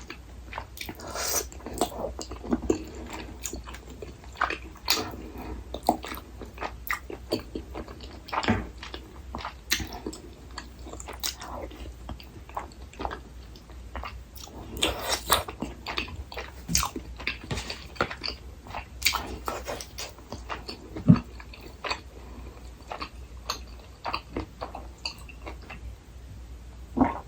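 Close-miked eating sounds: a person chewing and biting food, with irregular wet mouth clicks and smacks. A sharper knock comes about three-quarters of the way through.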